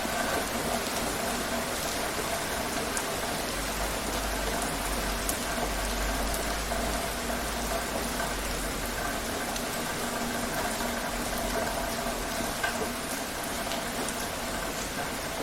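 Steady rain falling, an even hiss with scattered small drop ticks over a low rumble.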